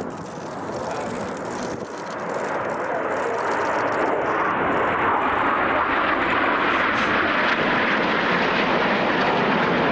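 Aircraft engine noise growing steadily louder as an airplane approaches, a dense rushing sound without a clear pitch.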